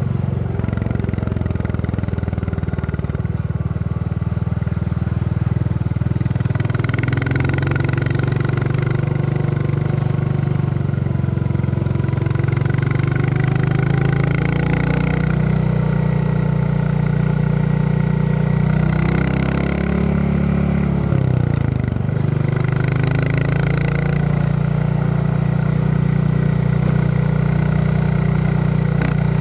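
Royal Enfield Classic 350's single-cylinder engine thumping steadily under way. Its note dips briefly about 21 seconds in and then picks up again.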